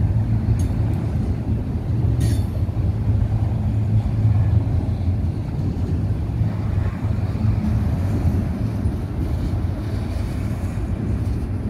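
Autorack freight cars rolling past, a steady low rumble of steel wheels on the rails, with two short clicks in the first three seconds.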